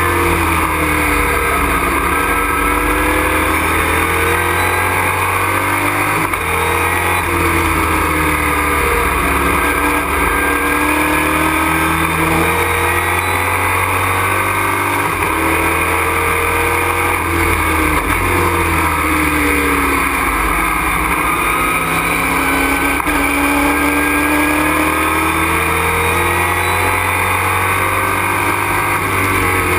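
Race truck's engine heard from inside the cockpit at racing speed, the pitch climbing under acceleration and dropping back again and again through gear changes and braking into corners.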